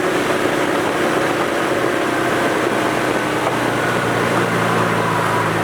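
Car engine running while driving, heard from inside the cabin with wind and road noise; a steady low engine tone comes up about two seconds in.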